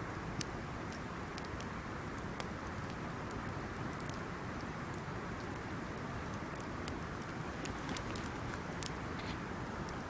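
Wood fire crackling: irregular sharp pops and snaps over a steady low hiss and rumble, the pops coming thicker a little past the middle.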